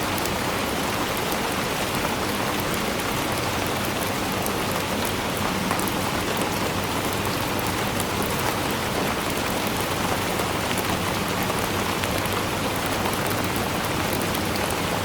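Steady rainfall: an even hiss with many small drop ticks and no change in strength.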